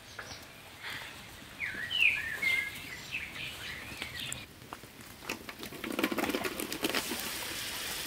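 A bird chirping a few short, quick calls in the first half, loudest about two seconds in. In the second half a wooden spoon stirs and scrapes through fried onions in oil in a large metal pan.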